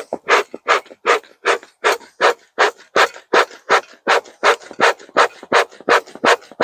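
Beekeeping smoker's bellows pumped steadily by hand, a whoosh of air blown through the smouldering burlap and pine needles about three times a second to get the fire going.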